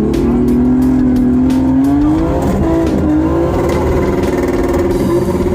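A car engine revving, its pitch rising and falling several times, with music underneath.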